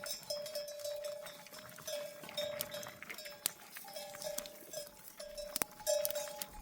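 Bells on a moving flock of sheep clanking irregularly, a lower bell joined later by a higher one, with a few sharp clicks.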